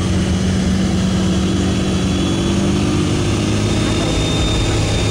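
Diesel truck engine running at a steady pitch.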